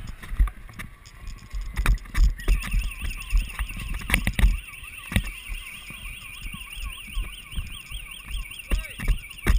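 An electronic alarm starts about two and a half seconds in: a high, rapidly warbling tone, wavering about four times a second. Sharp knocks and low rumble from handling or wind on the microphone come and go throughout.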